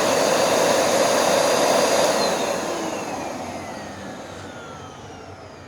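Hoover NanoLite upright vacuum's motor running at full speed with a high whine, its belt on the idler pulley so the brush roll isn't turning. About two seconds in it is switched off, and the whine falls steadily in pitch as the motor spins down.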